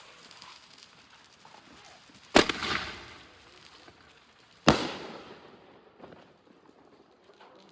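A single-shot consumer firework artillery shell going off: a sharp bang about two seconds in as it launches from its tube, then a second sharp bang about two seconds later as the shell bursts. Each bang has a short fading tail.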